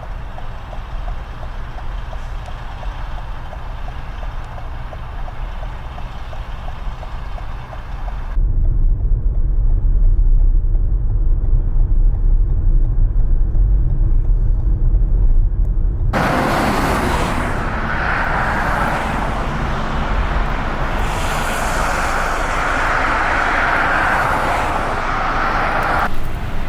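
Strong wind noise in three separately cut shots. It changes suddenly about eight seconds in, to a deep rumble of gusts buffeting the microphone. About sixteen seconds in it changes again, to a loud, wide rushing noise.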